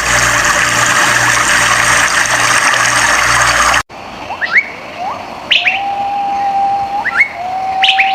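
A steady rushing noise like flowing water, then, after a sudden cut, a bird whistling: short rising notes and two long, level whistled notes.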